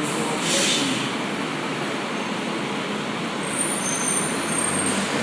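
Rubber-tyred Bukit Panjang LRT people-mover train pulling away from the platform: a steady running rumble, a short hiss of released air about half a second in, and a faint high-pitched whine joining partway through.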